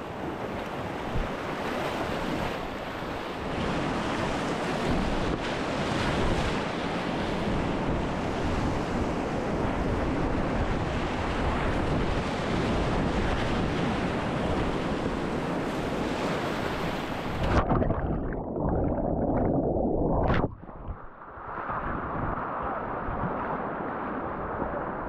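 Steady rush of river water with wind buffeting the microphone of a kayaker's camera. About 17 seconds in, the sound suddenly turns muffled; a short sharp sound follows about three seconds later, then a duller steady wash.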